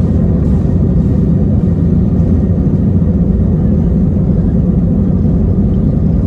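Steady, deep cabin noise of an Airbus A319 airliner, engines and airflow heard from inside the passenger cabin, even and unbroken throughout.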